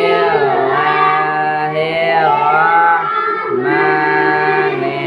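A group of voices, children among them, chanting an Arabic Quranic recitation together in slow, drawn-out tones, with a short break a little past three seconds.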